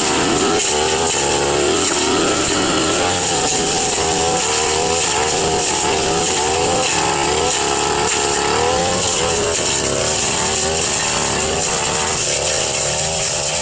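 Brush cutter engine running at high revs, its pitch dipping and recovering again and again as the blade bites into grass and undergrowth.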